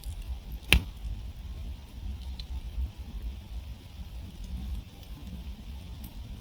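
Wood campfire burning and crackling, with one loud sharp pop just under a second in and a few fainter pops after it, over a steady low rumble.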